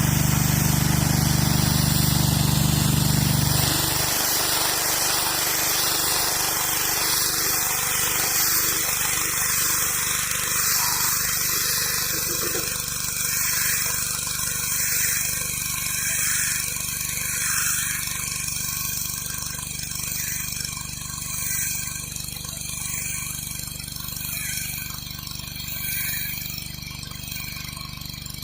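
Gas-engine pressure washer running with its high-pressure water spray hissing on concrete. About four seconds in, the engine's low hum drops sharply quieter but keeps going, while the spray hiss carries on, wavering as the wand sweeps.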